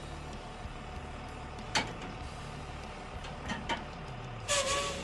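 Semi-truck tractor's engine idling steadily, with a few short sharp knocks and a louder burst of noise near the end.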